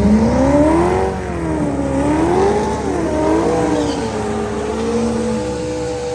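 Car engine revving hard: the pitch climbs, wavers up and down as the throttle is worked, then holds at high revs.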